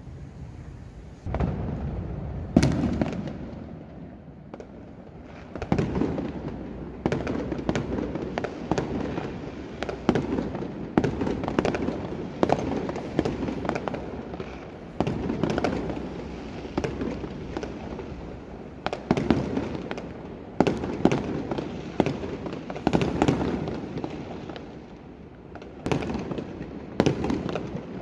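Fireworks going off in quick succession: many sharp bangs and crackling bursts, with brief lulls about four seconds in and again a few seconds before the end.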